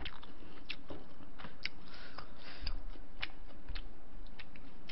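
Close-miked chewing and wet mouth clicks of a person eating, with irregular sharp clicks scattered through.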